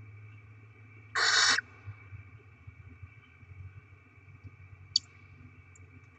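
Barn owl giving one short, harsh, hissing screech about a second in, over a faint steady hum; a sharp click sounds near the end.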